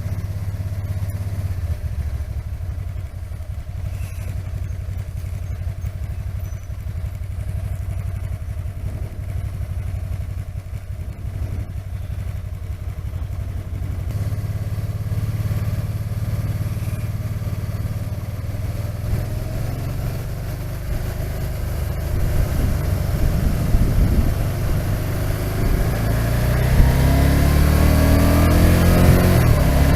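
Can-Am Spyder RT engine running at road speed, picked up by a helmet-mounted microphone with wind rushing past an open face shield. From about 20 s in, the engine note climbs and the wind grows louder as the bike accelerates.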